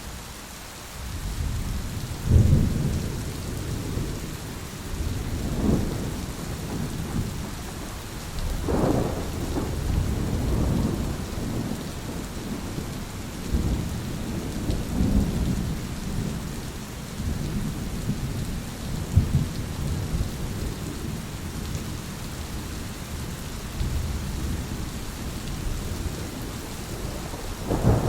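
Rolling thunder over steady rain: a long, deep rumble builds about two seconds in and swells again and again, with the sharpest cracks near the start and around a third of the way through.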